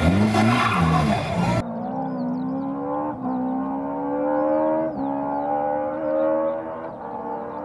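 Rally car engine revving hard, its pitch swinging up and down. About one and a half seconds in it gives way to a more distant rally car accelerating through the gears: the engine note climbs steadily and drops sharply at each of three upshifts.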